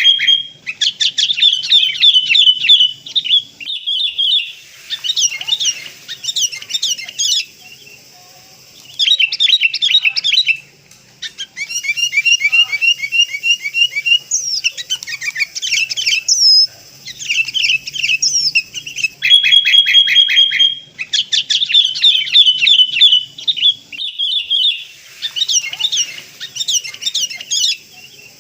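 Sooty-headed bulbuls (kutilang) calling: bursts of rapid chattering notes a second or two long, separated by short pauses, with an occasional held whistled note.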